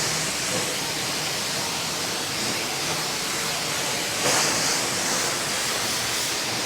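Self-serve car wash pressure wand spraying high-pressure soap: a steady hiss of spray that gets brighter about four seconds in.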